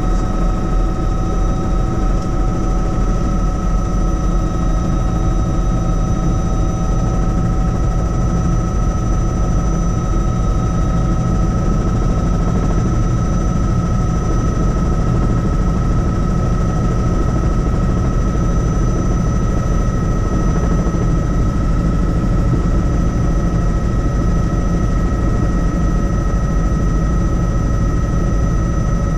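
Helicopter in flight: the rotor and turbine engine running steadily, a loud even low rumble with a constant high whine over it.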